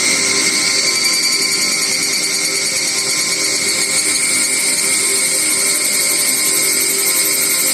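Steady, dense chorus of buzzing insects, high-pitched and unbroken, as in forest ambience.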